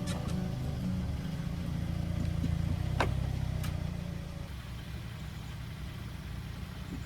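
A steady low rumble that eases off a little about halfway through, with a sharp click about three seconds in and a fainter one just after.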